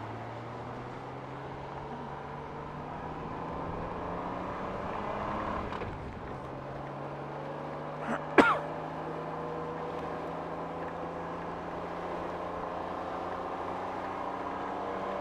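Honda Gold Wing motorcycle engine running on the road, its steady note climbing slowly in pitch with a brief break about six seconds in. A single short cough cuts in about eight seconds in.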